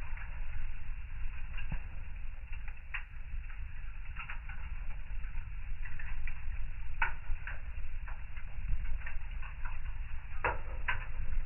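Fire in a fireplace crackling: irregular sharp pops and snaps over a steady low rumble, with louder pops about 7 and 10.5 seconds in.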